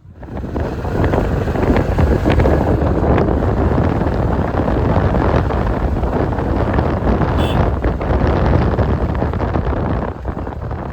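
Heavy wind buffeting the microphone on a moving bike, a loud steady rumble that starts suddenly, with a few knocks in it.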